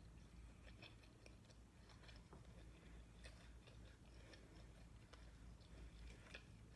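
Very faint chewing with small irregular mouth clicks and smacks, a person eating close to the microphone.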